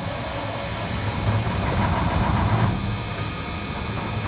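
Detroit Diesel 8V71 two-stroke V8 diesel turning over and firing unevenly as it tries to catch on a cold start after sitting for months, with no intake heater or glow plugs.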